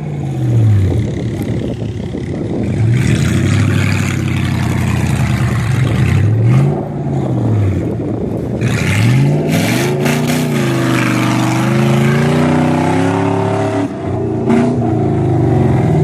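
SUV engine revving up and down repeatedly under load while driving through soft dune sand, its pitch climbing and dropping several times, over a steady hiss of sand and wind.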